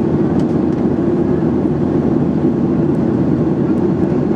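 Steady low rumble of a Boeing 737-800 in flight, heard inside the cabin: the engines and rushing air make one even, unchanging noise.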